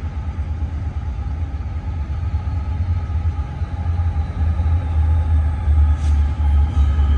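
Diesel locomotives of an approaching Union Pacific freight train, a low rumble that grows gradually louder as the train nears.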